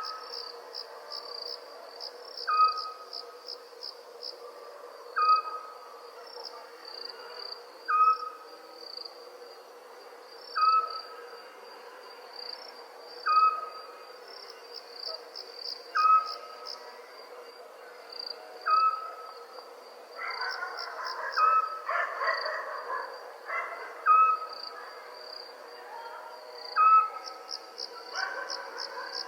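Crickets trilling steadily under an owl giving a short, single hoot about every two and a half seconds, roughly a dozen times. A brief rougher sound joins in about two-thirds of the way through.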